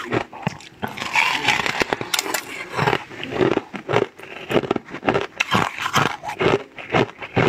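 Close-miked chewing and biting of crunchy food, a quick run of crackly, wet mouth sounds one after another.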